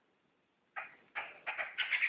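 Poksay laughingthrush song starting up again after a short pause: a string of short chirping notes that come quicker and louder, about three a second by the end.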